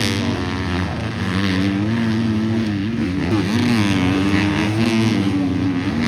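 250-class four-stroke motocross bikes on the throttle, the engine pitch climbing and dropping again and again as the riders rev and shift through the section.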